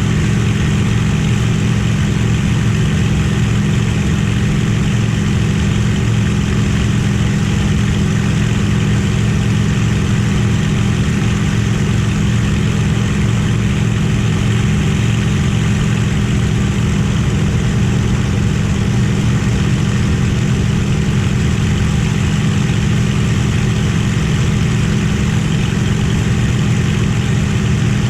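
Merlin V12 piston aero engine running at steady power, a loud even drone with no rise or fall in pitch or level.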